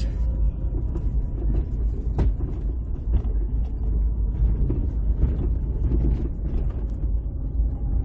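Inside the cabin of a 2006 Ford Escape: a steady low rumble with a faint, even hum over it, which the owner puts down to the vehicle's electronics rather than a wheel bearing. Light clicks and knocks come and go.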